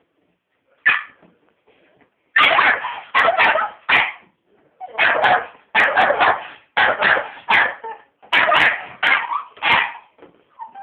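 Staffordshire bull terrier barking at a vacuum cleaner: one bark about a second in, then a run of quick, repeated barks from about two seconds in, roughly two a second.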